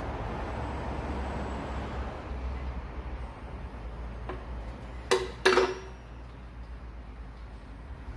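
Two sharp metallic clinks about half a second apart, each ringing briefly, over a steady low background noise.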